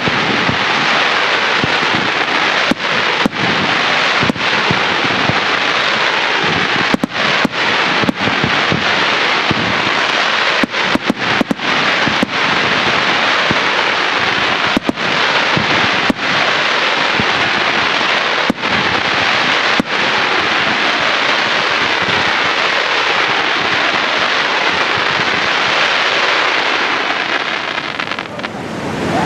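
Fireworks display: comets and aerial shells firing, a steady wash of noise broken by many sharp bangs. The bangs come thickly for the first twenty seconds or so and then thin out, and the whole dies down briefly near the end.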